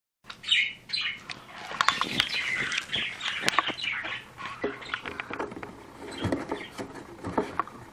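Pet bird chirping in short, repeated calls, mixed with many sharp clicks and scratching taps.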